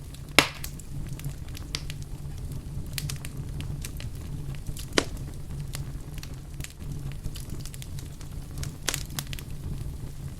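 Wood fire in a fireplace crackling, with scattered small snaps and two louder pops, about half a second in and about five seconds in, over a steady low rumble.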